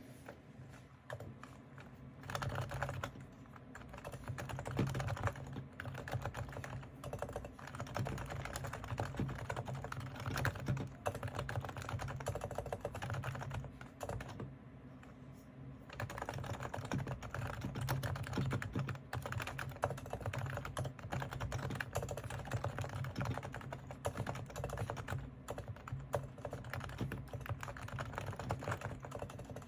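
Realforce R3 silent-model Topre electrostatic capacitive keyboard being typed on in a continuous stream of quick keystrokes, with a short pause about halfway through.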